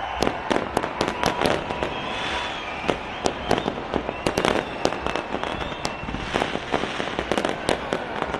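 Fireworks going off: a rapid, irregular string of sharp bangs and firecracker-like pops, several a second, over a steady background rumble and hiss.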